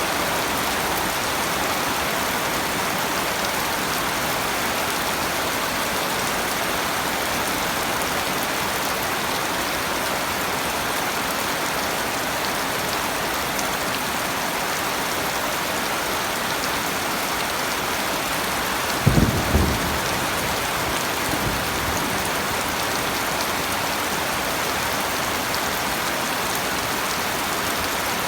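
Steady rain falling, an even hiss of drops. About two-thirds of the way through comes a brief low thump, with a fainter one a couple of seconds later.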